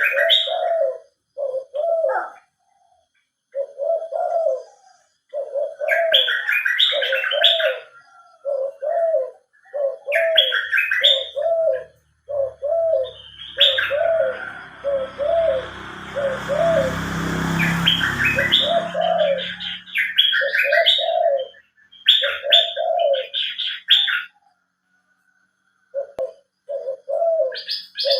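Birds singing: a dove coos in a long series of short, evenly repeated low notes, while another bird breaks in with bursts of quick, high chirping phrases. Midway, a rushing noise with a low rumble rises and fades over several seconds.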